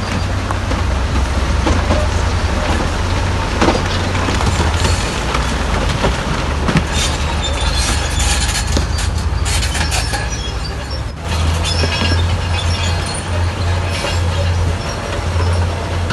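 Crawler bulldozer working: diesel engine running with a steady low drone, and steel tracks clanking, with high squeaks through the middle.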